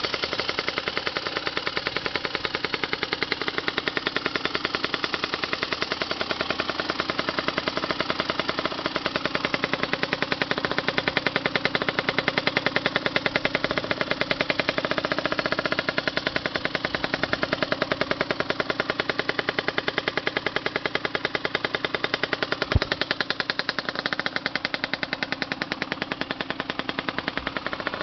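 Honda CRM50 two-stroke single, fitted with a bore-up cylinder and an expansion chamber with aftermarket silencer, running with a rapid string of exhaust pulses, the revs wavering up and down. A single sharp knock about 23 seconds in.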